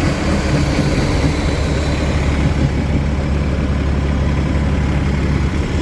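Cummins ISL inline-six diesel of a 2010 Gillig Low Floor transit bus idling steadily after being revved, its higher hiss dying away about halfway through.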